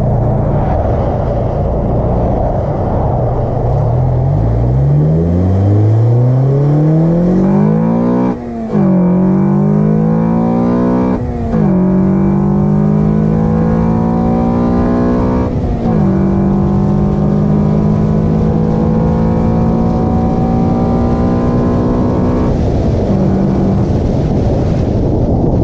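Car engine fitted with an Acuity cold air intake accelerating through the gears: the engine pitch climbs steadily, dips briefly at three upshifts and climbs again after each one, then the throttle is released near the end, leaving road rumble.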